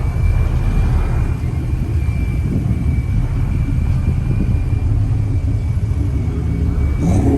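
Vehicle engines idling nearby: a steady low rumble with a faint steady high whine over it, and a short rising note near the end.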